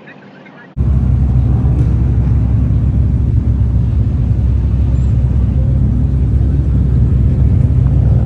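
Loud, steady low rumble of a car, starting abruptly just under a second in.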